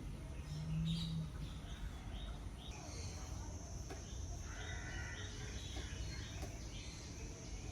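Various birds chirping and calling, with a busier burst of calls about five seconds in. A steady high-pitched insect buzz sets in about three seconds in.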